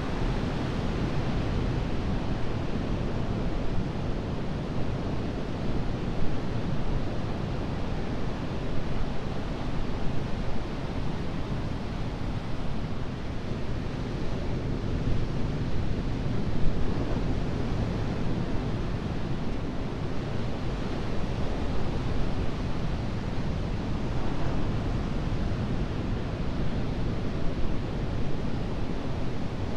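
Ocean surf breaking and washing on a beach, a steady rushing noise that swells and eases a little, with some wind on the microphone.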